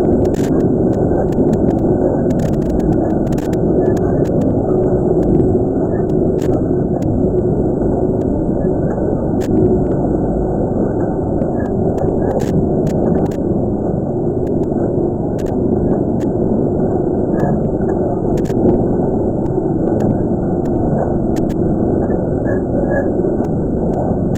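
Cave ambience: a steady, loud low rumble with faint clicks scattered through it.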